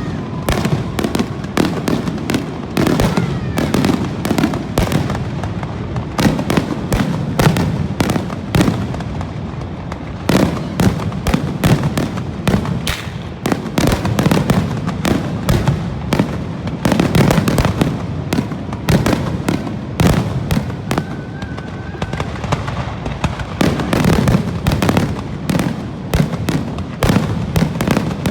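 Aerial fireworks bursting in rapid, near-continuous bangs several a second, over a steady low rumble.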